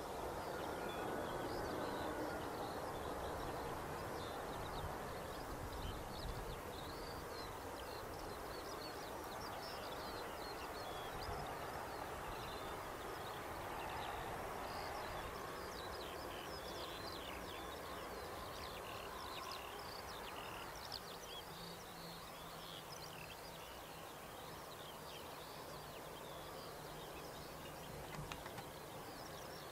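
Distant jet airliner rumble, loudest at the start and slowly fading, with birds chirping throughout above it.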